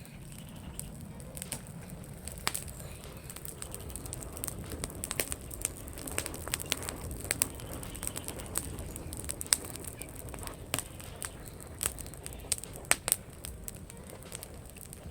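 Bonfire of dry branches crackling, with dense irregular sharp pops and snaps over a steady low rush.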